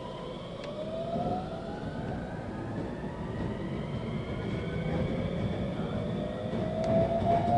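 Type 521 electric train's traction motors whining, several tones rising slowly in pitch as the train gathers speed, over the rumble of wheels on rail, heard from inside the car.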